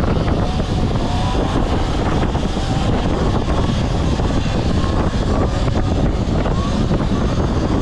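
Wind rushing over the microphone while riding, a steady loud rumble, with the faint rising whine of electric dirt bike motors speeding up a few times.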